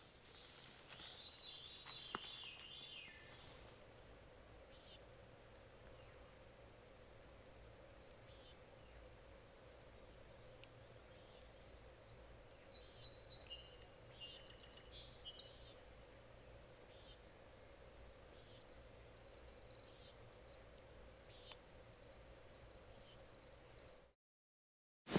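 Faint birdsong in the woods: a few single high calls about two seconds apart, then a long continuous high warbling song from about halfway through, over a faint steady hum; everything cuts off just before the end.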